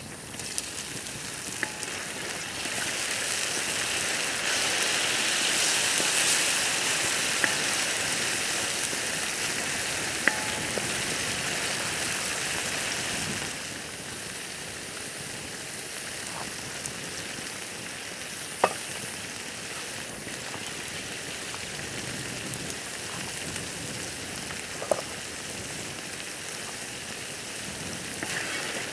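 Food sizzling in a pan over a wood fire: a steady hiss that swells for several seconds, then settles lower about halfway through, with a few sharp pops.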